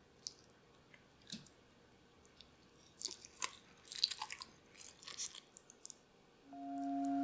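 Irregular crisp crunching and crackling, close and quiet, thickest about three to five seconds in. Soft music with sustained tones comes in near the end.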